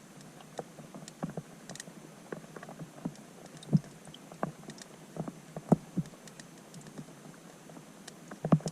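Raindrops hitting a pond's surface, heard from underwater: irregular clicks and plinks over a faint hiss, with a few louder ones about four, six and eight and a half seconds in.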